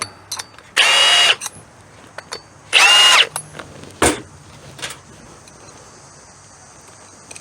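DeWalt DCS350 cordless threaded rod cutter running in two short motor bursts of about half a second each, a whine that bends in pitch, followed by a single sharp click about four seconds in.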